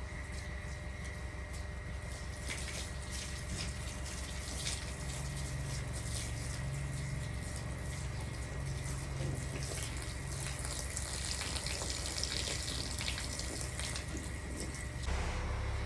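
Water running steadily, with small splashes and clicks, until the sound changes abruptly near the end.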